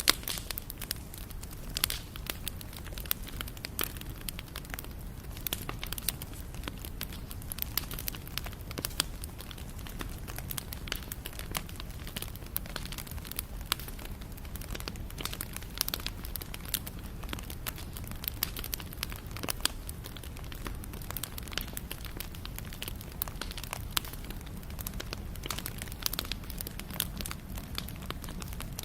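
Wood fire burning with irregular crackles and pops over a steady low rumble of flames.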